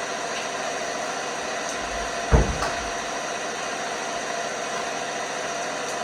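LG washing machine running with a steady hum, with one loud thump about two seconds in and a smaller knock just after, as toy rubber snakes in the drum are tossed about.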